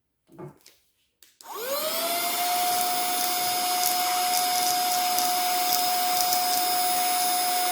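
Brief handling noise and a click, then a portable cordless vacuum cleaner switched on about a second and a half in: its motor whine rises quickly and settles into a steady high-pitched run with airflow hiss. A few light ticks in the middle are popcorn kernels being sucked up.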